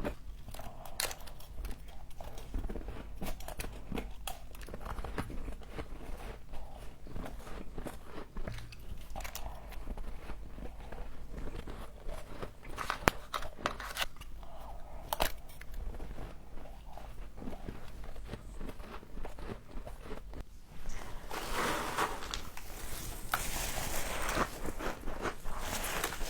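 Close-miked biting and chewing of frost: scattered crisp crackles and sharp clicks, becoming a louder, denser crunching about three quarters of the way through.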